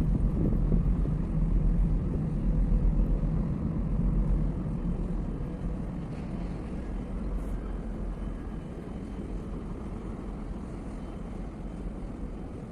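Low, steady rumble of the dual-fuel container ship CMA CGM Iguacu's engines and machinery as the ship passes. It grows fainter a little before halfway, and there is some wind buffeting on the microphone.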